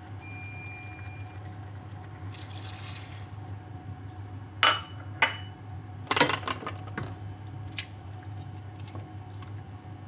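Kitchen sounds over a steady low hum: a short pour or splash of liquid about two seconds in, then a handful of sharp clinks and knocks of utensils or dishes.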